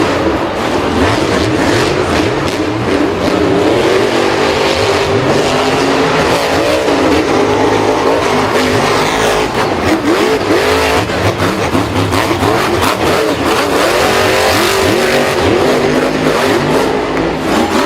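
Several racing engines revving over one another, their pitches rising and falling continuously.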